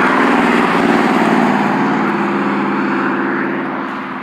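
A bus driving past on a wet highway: the engine drones with its tyres hissing on the wet road, loudest in the first second or two, then fading as it moves away.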